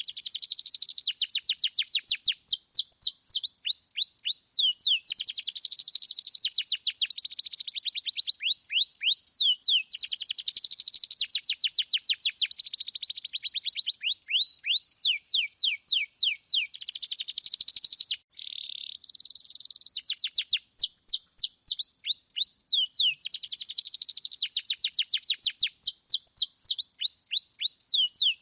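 Domestic canary singing continuously: long rolling trills of rapid, high, downward-sweeping notes. About two-thirds of the way through there is a brief break, followed by a short buzzy note.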